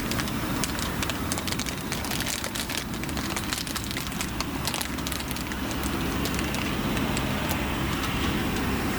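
Wood burning in a solotour assembled fireplace-type wood stove, crackling and popping, the pops thickest in the first half, over a steady low rumble.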